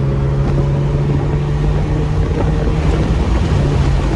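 Straight-piped Infiniti Q50 exhaust, with no muffler or resonators, droning loudly at a steady engine speed while cruising, with wind noise over it.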